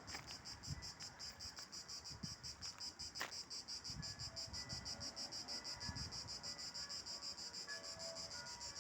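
Insects chirping steadily in a fast, even pulsing rhythm, with a few faint soft thuds underneath.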